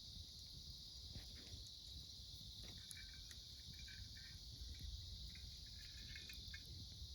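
Autumn insects singing in a steady, faint, high-pitched chorus, with a second, lower trilling call coming and going from about three seconds in. A few faint crackles from the wood campfire sound over it.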